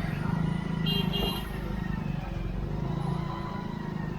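Busy market street traffic heard from a motorcycle being ridden through it: the engine runs steadily under a mix of other vehicles. A short high double beep comes about a second in.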